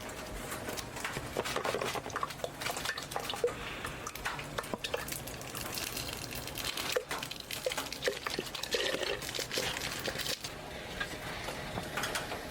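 Liquid being poured and stirred in a cooking pot, with many small clinks and taps of utensils and dishes.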